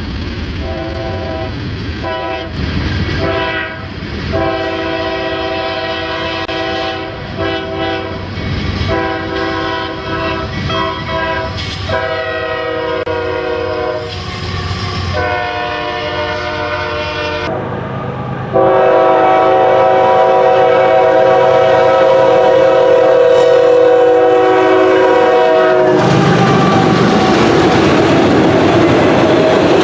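Locomotive multi-chime air horn sounding a string of short and longer blasts, then one long held blast of several seconds. After that the horn stops and the train runs past, its wheels clattering over the rails.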